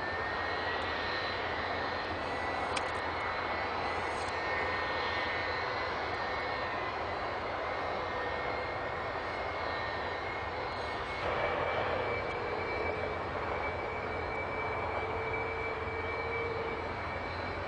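Jet aircraft engine running steadily, a continuous rush with a thin steady whine. About eleven seconds in it grows slightly louder and a second whine joins in.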